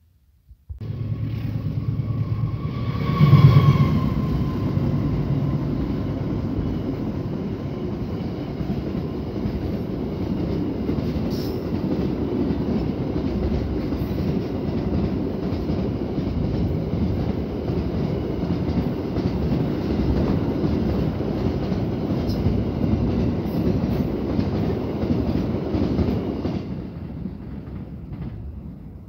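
Container freight train passing close: its loudest moment comes about three seconds in, then a long steady rumble of the flatcars' wheels on the rails that fades near the end as the last wagon moves away.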